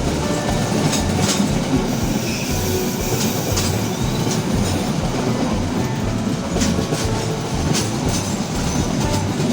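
A train running on the rails, its wheels clattering over the rail joints with a steady rumble and occasional sharp clicks.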